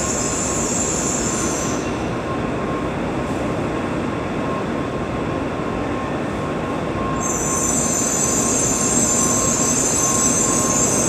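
Tokaido Shinkansen train pulling into the station: a steady rush of rolling noise with a high-pitched squeal that stops about two seconds in and comes back about seven seconds in, growing louder toward the end.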